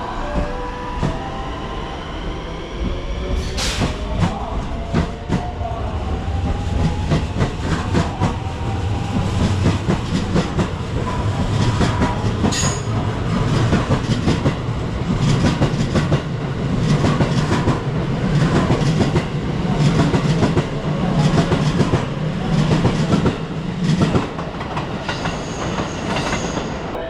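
Electric train running along the rails: an electric motor whine that glides in pitch in the first few seconds, wheels clacking over rail joints again and again, and a low rumble that grows louder through the middle and eases near the end.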